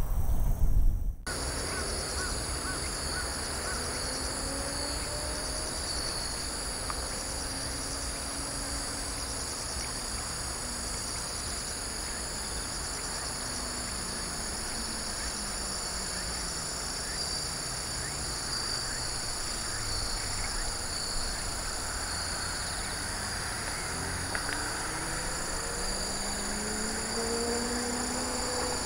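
Outdoor ambience dominated by a steady high trilling chorus of autumn insects. Distant traffic passes now and then as a low hum that slowly rises and falls, most clearly near the end.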